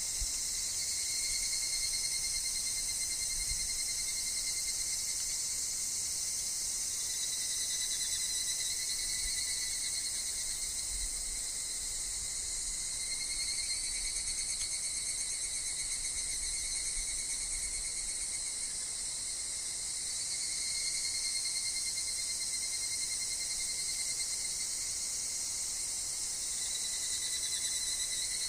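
Higurashi (evening cicadas) and other insects calling together in a forest: a steady, high-pitched shrill with wavering tones beneath it that dip now and then, over a faint low rumble of wind.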